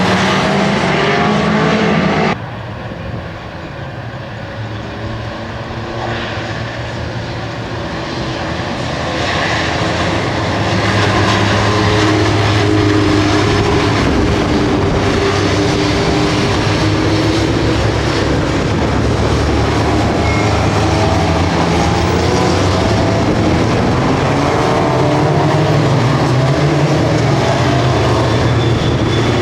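Alfa Romeo touring race cars' engines running hard. A sudden cut about two seconds in drops the level, then the engine sound grows louder over several seconds and stays loud.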